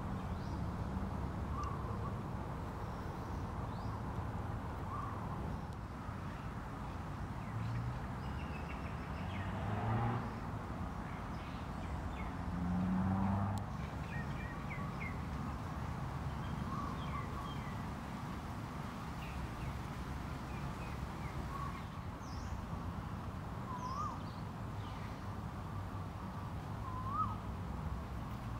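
Birds calling outdoors: short, upward-hooked calls recur every few seconds, with fainter, higher chirps, over a steady low rumble.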